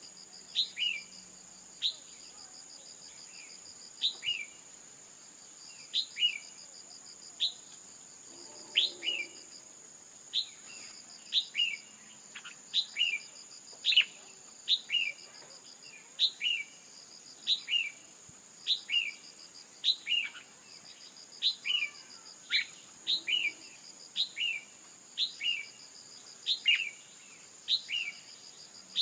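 Red-whiskered bulbul calls of the kind played as a female's call to set males singing: short chirps that drop in pitch, often in pairs, about one a second. A steady high insect-like trill runs underneath.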